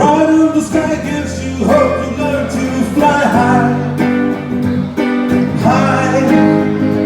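Live band playing an instrumental break between verses of a song, guitar to the fore, with a lead line bending and wavering over sustained chords.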